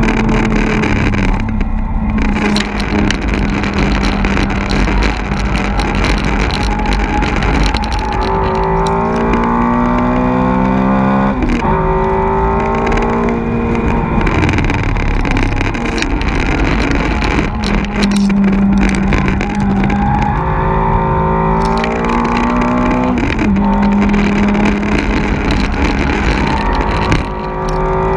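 A car's engine heard from inside the cabin while it is driven hard on a race circuit. The engine note climbs under acceleration and drops sharply at each gear change, over steady wind and tyre noise.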